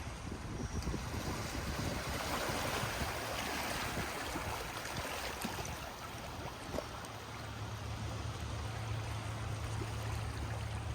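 Waves washing onto a lakeshore in strong wind, with wind buffeting the microphone as a low rumble that grows stronger in the second half.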